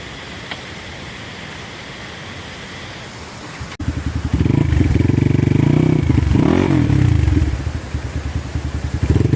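A steady hiss, then an abrupt cut just before four seconds in to a loud dirt bike engine running and revving, its pitch rising and falling.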